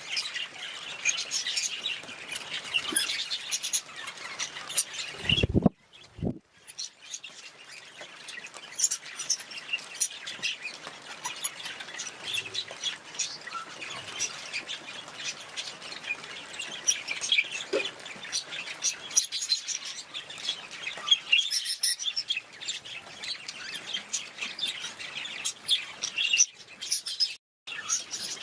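Budgerigars chattering and chirping continuously, many quick overlapping calls. A brief low thump comes about five seconds in, followed by a moment of silence, and there is another short silent gap near the end.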